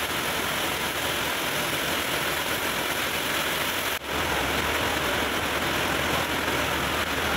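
Heavy rain pouring down at a covered railway platform, a dense, steady hiss. After a cut about four seconds in, a low steady hum runs underneath it.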